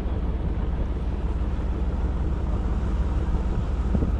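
A boat engine running steadily, a constant low drone with a hiss of water and wind over it.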